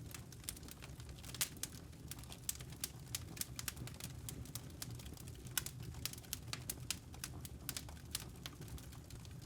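Wood campfire burning: a steady low rumble with irregular crackles and pops, the sharpest about a second and a half in and again about five and a half seconds in.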